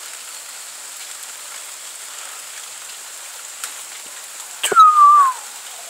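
Steady hiss of rain falling. About five seconds in, a sharp click and a brief high tone that falls in pitch, the loudest sound here.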